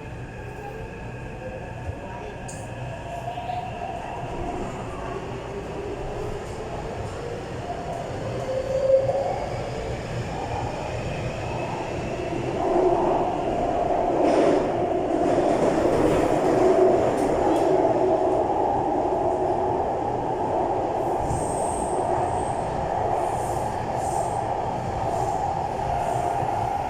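Taipei Metro train running on its line, with faint rising whines in the first few seconds as it picks up speed, then a steady wheel-and-track rumble that grows louder.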